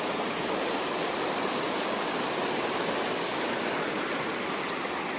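Creek water rushing steadily: a small, fast-flowing stream running over rocks.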